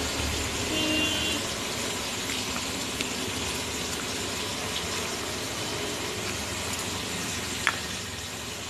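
Steady hiss of prawns frying in hot oil in a kadai.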